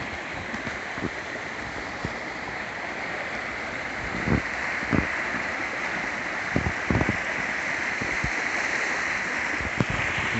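Steady rushing hiss of rain and running water, with a few soft low thumps now and then.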